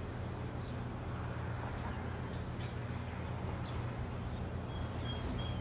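Outdoor background: a steady low hum under a light hiss, with a few faint, brief bird chirps.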